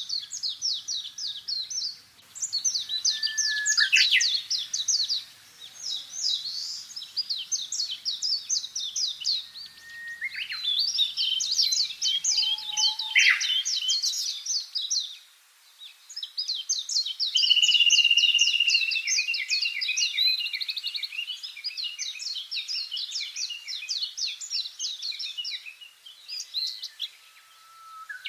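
Songbirds singing: long, rapid, high-pitched twittering phrases a few seconds each, one after another with short pauses.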